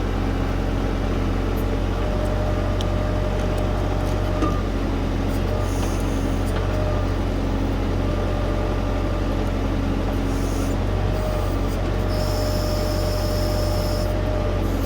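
Diesel tractor engine running steadily at an even speed, with a faint steady whine over the low drone and a short high hiss about twelve seconds in.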